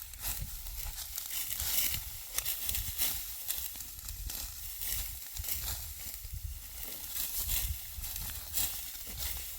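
Dry wheat stalks rustling and crackling under hand-harvesting with a sickle, in a run of crisp, irregular strokes, over a low rumble.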